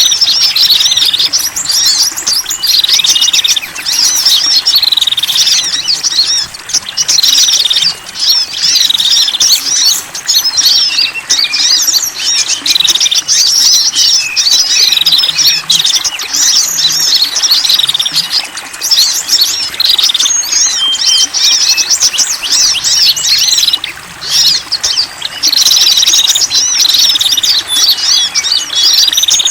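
Many small songbirds chirping and twittering in dense, overlapping high calls without a break: a bird-lure recording combining the calls of several small wild birds.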